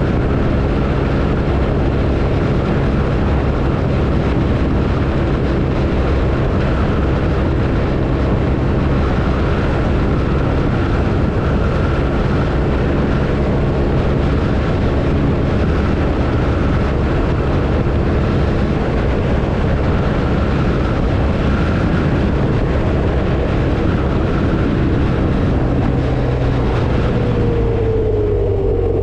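BMW R1250RT motorcycle's boxer-twin engine running at a steady road speed under a constant rush of wind and road noise; near the end the engine pitch drops as the bike slows.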